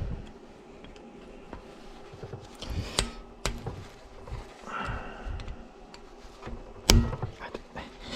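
Handling sounds: a few sharp knocks and clicks over softer rustling, the loudest knock near the end.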